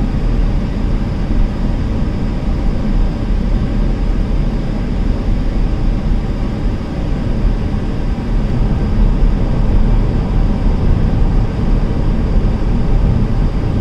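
Steady cabin noise of a 2-litre diesel Skoda cruising at about 60 mph with the windows shut: tyre and road roar, a low engine drone and the air-conditioning fan blowing on full.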